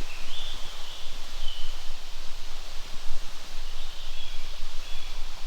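Outdoor wind noise with rustling and a low rumble that rises and falls, with a few short, high bird chirps now and then.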